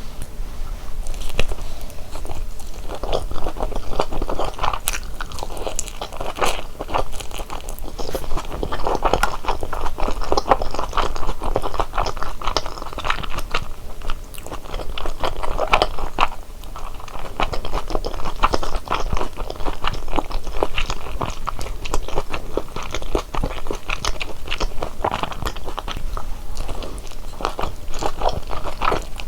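A person biting into and chewing large Korean dumplings (wang mandu), close to the microphone: a continuous stream of small clicking, crackling mouth sounds with short pauses.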